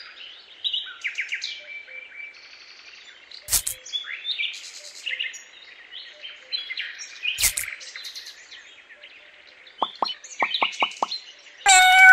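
Birds chirping and singing, many short calls overlapping. Two sharp clicks cut through, about three and a half seconds in and again about four seconds later, and a short loud tone with overtones sounds right at the end.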